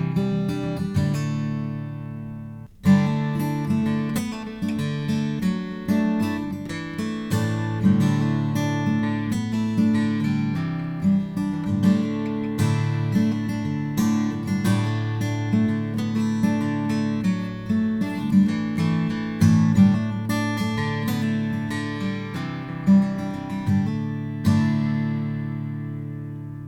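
Slope-shoulder acoustic guitar played with strummed chords and picked notes. It breaks off briefly about three seconds in, then ends on a chord left to ring out and fade.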